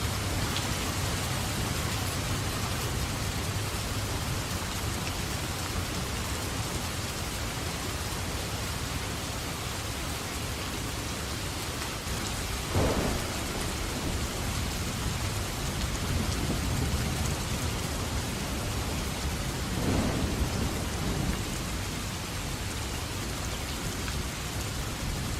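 Steady heavy rain falling, with thunder breaking through twice: a sharp crack about halfway through and a longer rumble a few seconds later.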